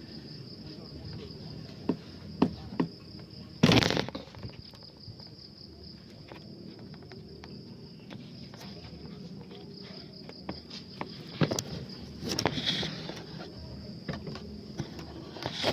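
Steady high insect chirring, with scattered sharp snaps and crackles; the loudest is a short burst about four seconds in, and there is another cluster near the three-quarter mark.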